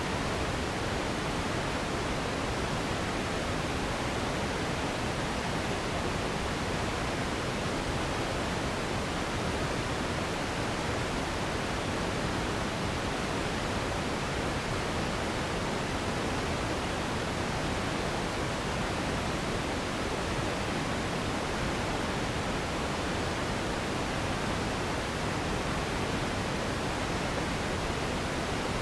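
Steady pink noise: an even, unchanging hiss, fuller in the low range than white noise and fading toward the top.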